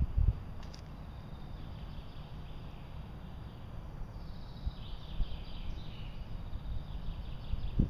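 Outdoor ambience: a low, uneven rumble with faint high chirps that come mostly in the second half.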